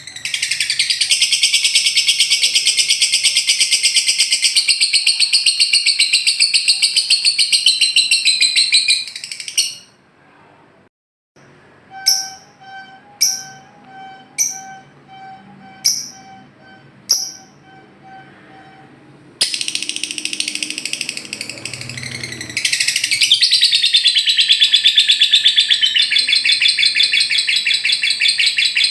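Lovebird 'ngekek' song: a long, dense, rapid high-pitched chatter of fast repeated notes. It breaks off for about ten seconds, during which there are only about five short separate calls a second or so apart, then the long chatter starts again.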